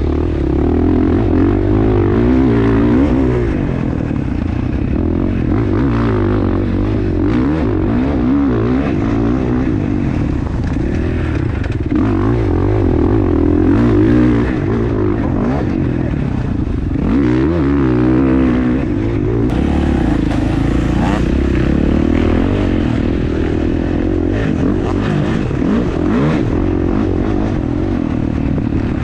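Dirt bike engine being ridden hard, its pitch rising and falling again and again as the throttle opens and closes.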